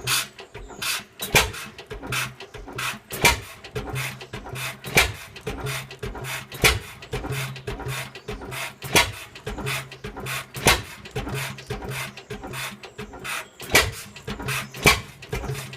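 1917 Fairbanks Morse Z-type 6 hp open-crank stationary engine running after a cold start. It fires a sharp bang every one and a half to three seconds at uneven spacing, with lighter clicks and knocks from the running gear in between: the skipped strokes of a hit-and-miss governor.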